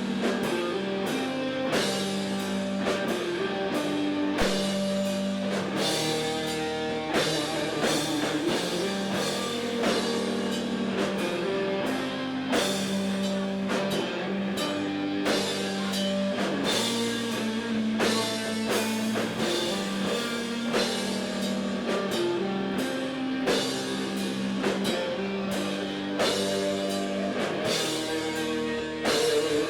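Rock band playing live: electric guitar and bass over a drum kit, at a steady, moderately fast beat.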